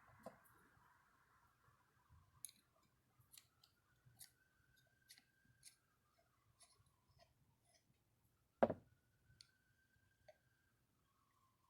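Scattered light metallic clicks and taps from small parts of an old Delco-Remy distributor being handled and taken apart, with one sharper knock about two-thirds of the way through.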